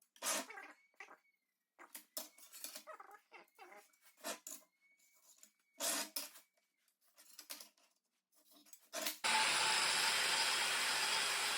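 Scattered knocks and clicks of handling tools and steel plate. About nine seconds in, a power tool starts abruptly with a loud, steady noise as the hole in the steel plate of the forge box is cut.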